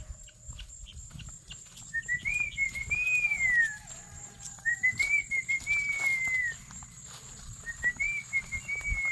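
A person whistling the same short rising-and-falling tune three times, each phrase about two seconds long.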